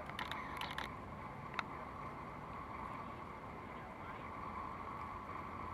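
Male downy woodpecker pecking at bark while foraging for insects: a quick cluster of taps in the first second, then one sharper tap about a second and a half in, over a steady background hum.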